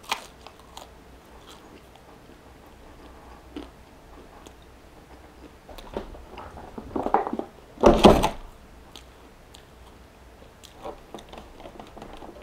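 Close-up chewing of a bite of grilled cheese sandwich, with small wet clicks. A short, louder noise comes about eight seconds in.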